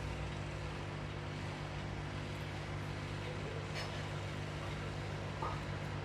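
Steady low mechanical hum with a faint click about four seconds in.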